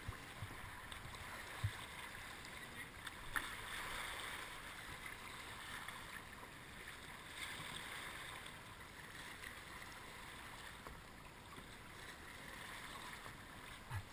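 Faint, steady rush and babble of river water, with a few soft knocks or splashes.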